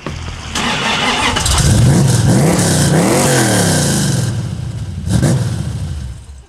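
Loud muscle-car V8 driving past, its engine noise building to a peak about two to three seconds in and then fading, with a short louder burst of throttle about five seconds in.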